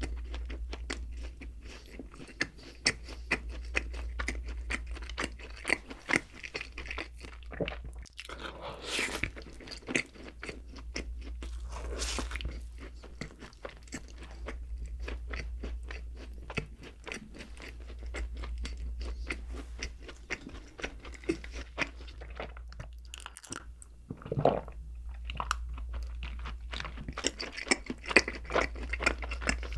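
Close-miked chewing and biting of doughnuts: wet, crackly mouth clicks with occasional louder bites, over a steady low hum.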